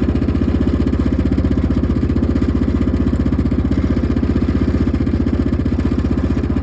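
1998 Yamaha Grizzly 600 ATV's single-cylinder four-stroke engine idling steadily, with an even, unchanging beat.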